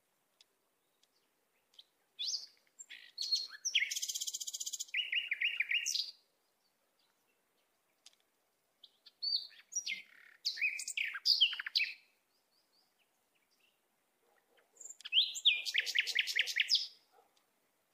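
Songbird singing: three bursts of high chirps and fast trills with quiet gaps between them.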